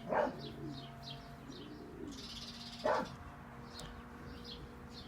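Birds chirping, a quick series of short high-pitched chirps repeating two or three times a second, with two brief louder sounds, one just after the start and one about three seconds in.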